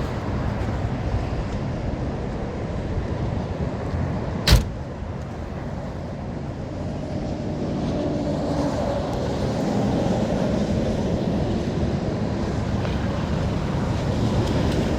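1962 Chevrolet Corvette's 327 V8 running steadily, growing somewhat louder from about eight seconds in. A single sharp click about four and a half seconds in.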